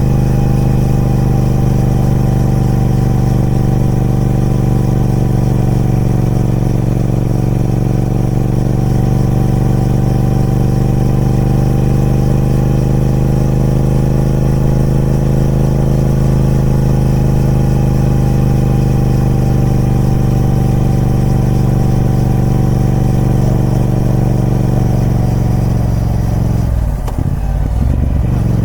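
Triumph Speed Twin 1200's parallel-twin engine running at steady revs through its stock exhaust. The pitch rises slightly around the middle and eases back. Near the end the note dips and breaks briefly before it picks up again.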